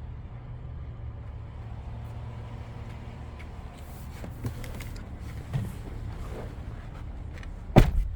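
Low steady hum of the 2022 Toyota Tundra's idling twin-turbo V6, with a few light clicks of handling, then a loud thump near the end as a truck door is shut.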